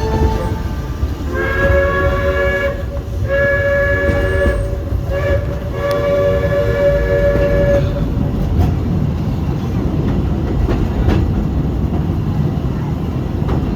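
Steam locomotive whistle blowing a chord in two long blasts, a short one and a long one, the standard grade-crossing signal, over the steady low rumble of the train running on the track.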